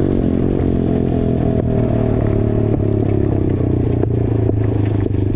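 150cc petrol dirt bike engine running under the rider, with several sharp pops from the exhaust, backfires, about one and a half, two and three-quarters and four seconds in.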